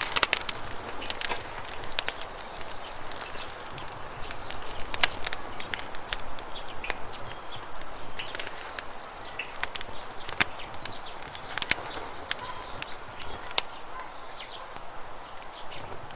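Campfire crackling with many irregular sharp pops, over the steady rush of river water. Short bird chirps come and go now and then.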